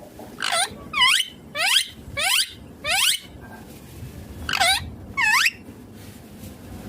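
Indian ringneck parakeet giving short, high squawks, each a quick falling sweep in pitch. There are five in quick succession, a pause of over a second, then two more.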